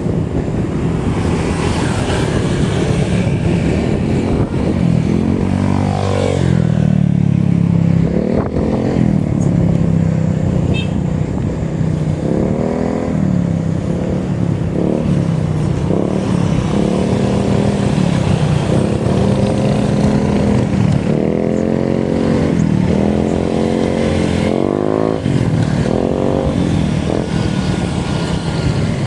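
Steady wind and road rumble from riding a bicycle, with a motor whose pitch rises and falls again and again, every one to three seconds.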